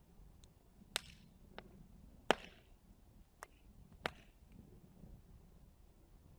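Wood fire crackling: a handful of sharp pops at uneven intervals, the loudest about a second and two seconds in, over a faint low hiss of burning.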